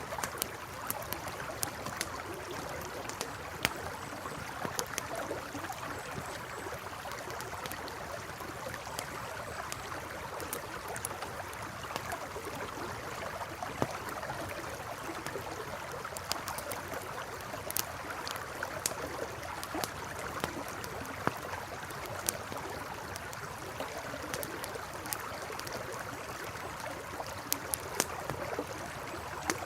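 A river flowing steadily, with a campfire crackling and popping in scattered sharp snaps over it.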